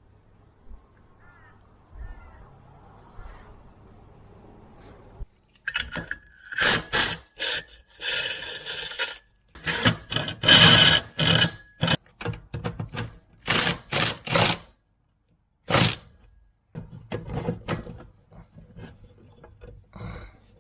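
Knocks, clanks and scrapes from the blown-out wheelbarrow wheel and its axle being worked on by hand. A quiet start gives way, about five seconds in, to a rapid run of sharp knocks and scraping, with a brief squeal.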